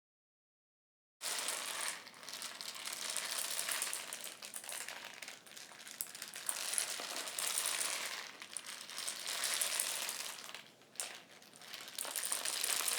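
Homemade rain stick being tipped: a dense rattling hiss of small pieces tumbling inside it. It starts suddenly about a second in and swells and fades in waves every two or three seconds.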